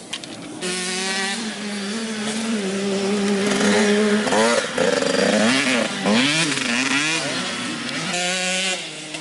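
Dirt bike engine running steadily, with the throttle blipped several times in the middle so the pitch rises and falls before settling again.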